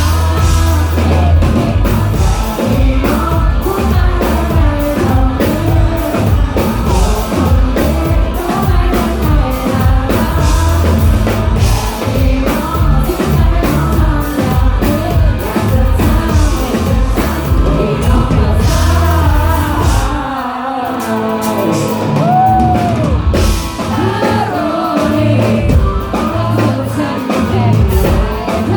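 Live pop-rock band playing loud, with sung lead vocals over drums, bass and guitars. About twenty seconds in, the bass and drums drop out briefly, then come back.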